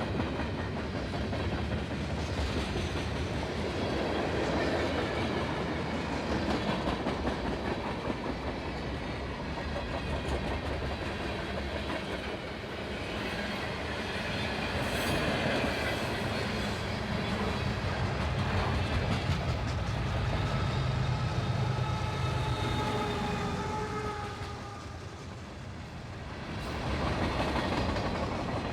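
Freight cars of a long CSX train rolling past, with steady rumble and wheel clatter over the rails and a few thin squealing tones about two-thirds of the way through.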